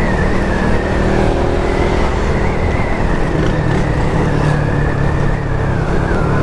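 Suzuki Raider 150 Fi single-cylinder engine running as the motorcycle is ridden, with air rushing over the microphone. A thin, high, wavering whine runs alongside.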